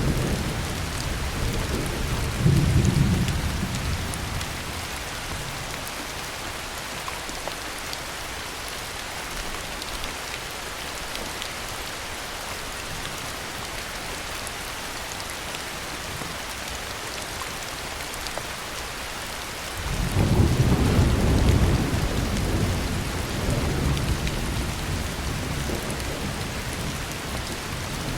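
Heavy rain falling steadily, with rolls of thunder: low rumbles in the first few seconds, then a louder thunderclap starting suddenly about twenty seconds in and rumbling on for several seconds.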